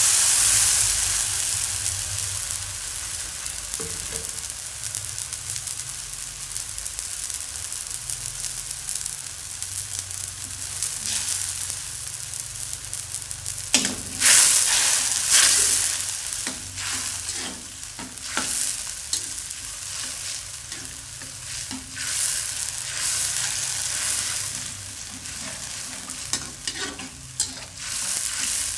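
Ground spice paste sizzling as it fries in hot oil in a wok. The sizzle is loudest just after the paste goes in and settles into a steady frying hiss, the sauté stage of cooking it until fragrant. From about halfway, a spatula scrapes and knocks against the wok as the paste is stirred.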